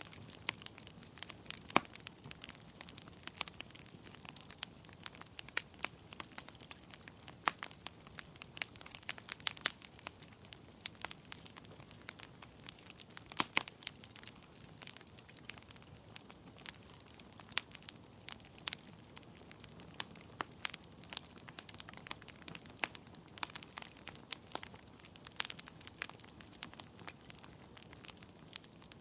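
Wood fire in a fireplace crackling, with irregular sharp pops and snaps from the burning logs over a low steady hiss.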